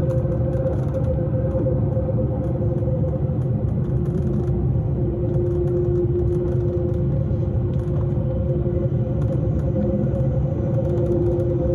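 S-Bahn electric commuter train running at steady speed, heard on board: a continuous rumble with two steady humming tones, the lower one swelling and fading.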